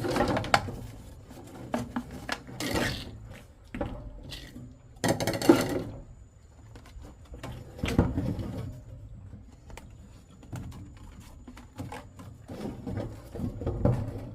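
Irregular knocks and clattering of objects being handled, in uneven bursts with short quiet gaps between.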